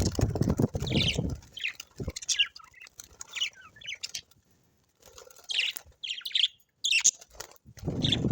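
Birds chirping in quick, short, high calls, with bursts of low rustling in the first second and again near the end. There is a brief near-silent gap about four seconds in.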